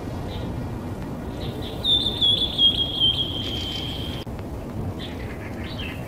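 A high-pitched trilling animal call, held for about a second and a half starting about two seconds in, over a steady low rumbling background noise; a few short chirps follow near the end.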